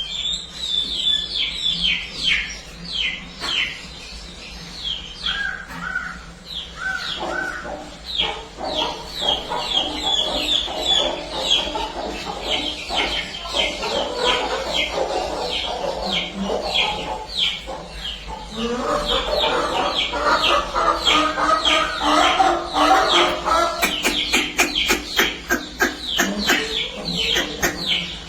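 Chickens clucking, with a steady stream of short high chirps, a couple a second; the clucking grows busier about eight seconds in and again in the last third.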